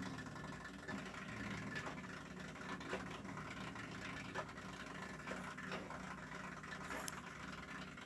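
Faint, steady low motor hum with a few soft clicks and taps.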